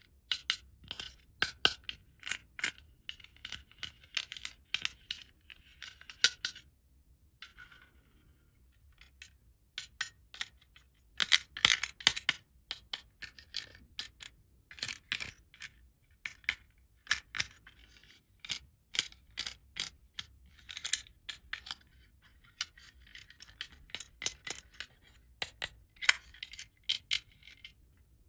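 Small hard plastic toy pieces clicking and tapping as they are handled and set down, in quick irregular runs with a short lull about seven seconds in.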